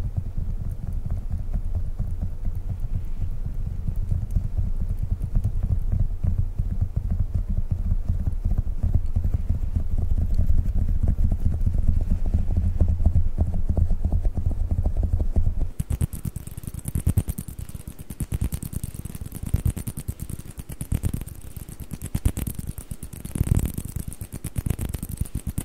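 Rapid fingertip tapping on squishy Globbles toy balls, a dense run of soft, low-pitched taps. About two-thirds of the way through it changes abruptly to tapping on table tennis balls, quieter and crisper, with a brighter, higher sound.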